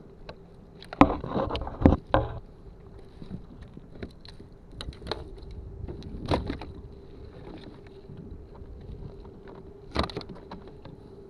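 Knocks and clattering on a kayak as a caught redfish is handled for measuring. The loudest cluster comes a second or two in, followed by a few scattered taps.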